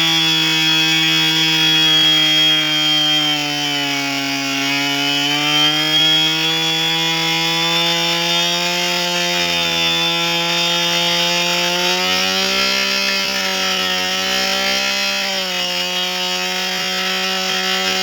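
Chainsaw running continuously while carving wood, its engine note sagging briefly about four seconds in and again near the end.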